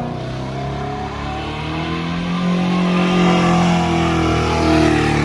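Truck engine revving through a loud exhaust, the revs climbing about two seconds in and held high.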